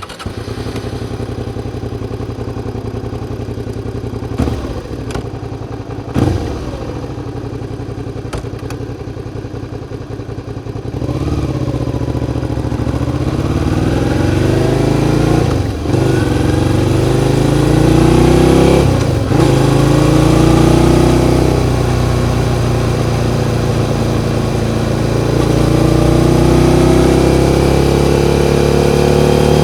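Suzuki SV650's 90-degree V-twin engine idling steadily, with a couple of short knocks. About eleven seconds in it gets louder and accelerates, the pitch rising in repeated sweeps that break off briefly at each gear change.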